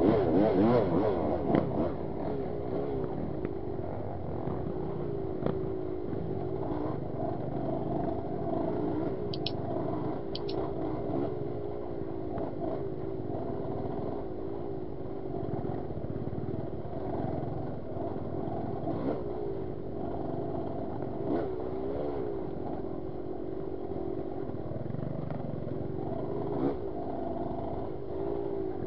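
Yamaha DT 200 two-stroke dirt bike engine running at low revs, its pitch constantly rising and falling as the throttle is opened and closed. It is louder in the first two seconds.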